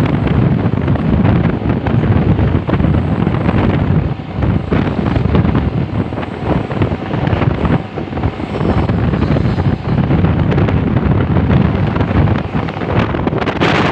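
Heavy truck traffic running past: a steady, loud rumble of engines and tyres, with wind buffeting the microphone. The noise dips briefly twice, about four and a half and eight seconds in.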